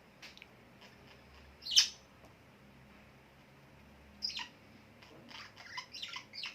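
Birds chirping in short, sharp calls with gaps between them: a loud call about two seconds in, another past the middle, and a quick run of calls near the end.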